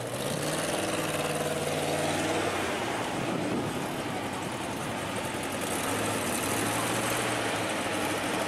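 Tatra 603's rear-mounted air-cooled V8 running at low revs as the car rolls slowly past across grass.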